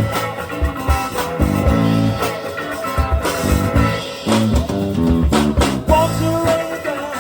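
A rock band playing live: guitar, bass guitar and drum kit in a steady groove.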